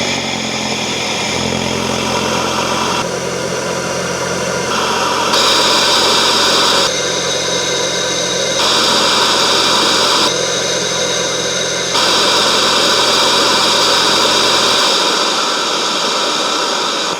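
Mk8 Volkswagen GTI's turbocharged four-cylinder engine running at idle through a freshly fitted 034 Motorsport S34 intake, a steady low hum under a loud intake and turbo hiss with a high whistle. The hiss changes level abruptly several times, and the low hum drops out near the end.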